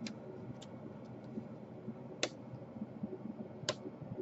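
Sharp clicks of broken laptop case plastic being picked and pried away from the hinge mount. There are small ones at the start, then two louder clicks, one about halfway through and one near the end.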